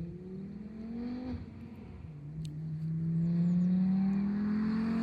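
Volvo S60 2.0 petrol engine through a de-catted, straight-through exhaust, accelerating hard: the engine note rises, drops at a gear change about a second and a half in, then climbs again and grows louder as the car approaches.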